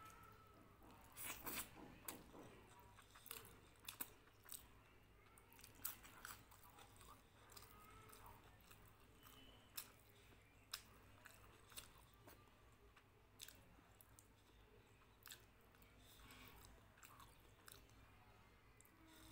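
A person eating close to the microphone: chewing a hand-fed mouthful of rice and fried food, with crisp crunches that come thick and fast in the first few seconds and then more scattered.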